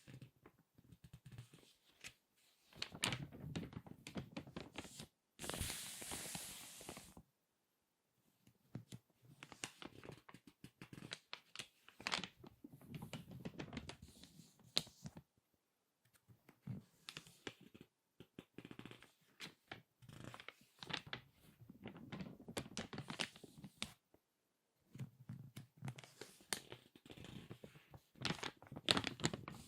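Crinkly magazine pages being squeezed and turned by hand, crackling in irregular bouts of sharp paper clicks and rustles, with a longer sweeping rustle about six seconds in and a few short pauses.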